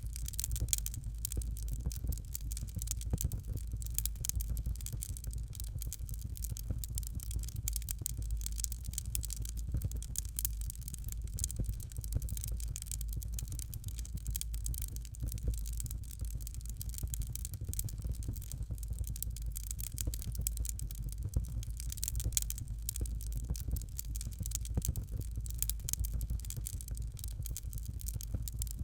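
Fire in a fireplace crackling steadily: a dense run of small, irregular pops and snaps over a low rumble.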